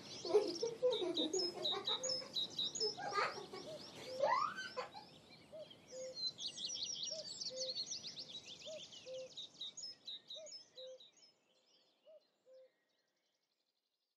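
Birdsong: many quick high chirps and trills, with a short low note repeated about once a second. It fades away and stops about twelve seconds in.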